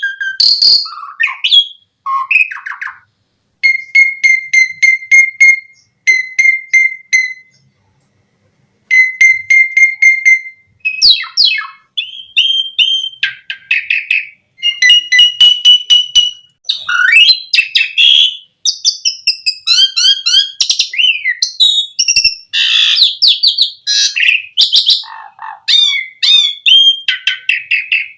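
Jalak suren (pied starling) singing a long, varied song: runs of fast, clicking notes over a held whistle, mixed with whistled glides and chattering phrases, with two short pauses in the first third.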